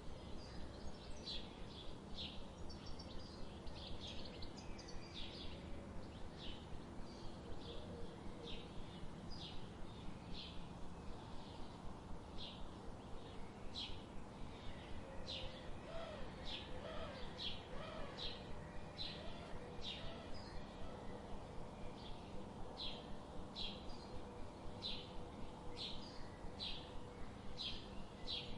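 Songbirds chirping, short high calls repeated every second or less, over a steady low background noise; a few lower gliding calls come in around the middle.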